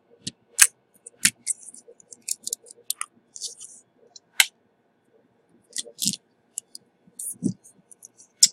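Small hand tools clicking and tapping at an electronics bench: a run of sharp, irregular clicks with lighter ticks between, as test probes or tweezers are handled and touched to a phone logic board while voltages are re-checked.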